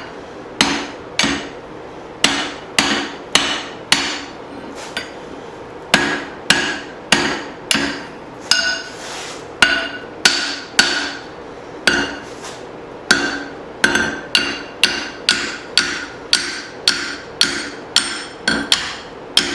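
Hand hammer striking steel in a steady run of ringing blows, about one and a half a second, with short pauses near the start and midway: driving a tomahawk drift through the eye of a hot hatchet head forged from leaf spring.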